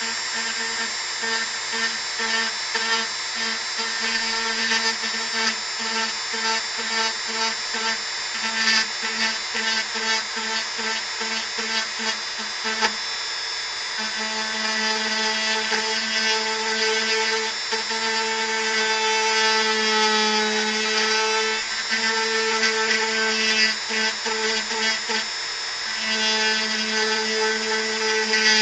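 Dremel rotary tool running while carving wood. Its tone breaks up in quick, repeated dips through the first half as the bit bites, then runs steadier with only a few slower dips.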